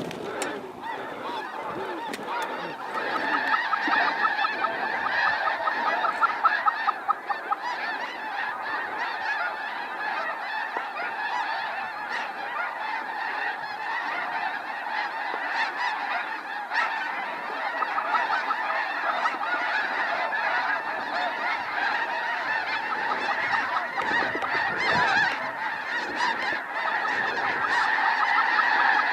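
A large flock of snow geese calling continuously, a dense chorus of high-pitched honks that grows a little louder near the end.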